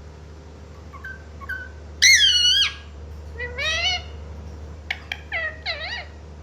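Pet parrot calling: faint short chirps, then a loud squawk about two seconds in, a rising-and-falling call near four seconds, and a quick run of short calls near the end.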